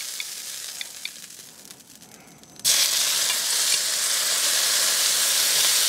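Canned chicken sizzling on a hot Blackstone flat-top griddle greased with coconut oil. A faint hiss from the oil fades over the first couple of seconds, then a loud sizzle starts suddenly about two and a half seconds in as the chicken lands on the griddle, and holds steady.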